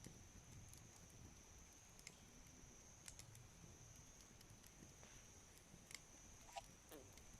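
Wood campfire crackling quietly, with a few sharp pops spread out and a short falling squeak near the end, over a steady faint high tone.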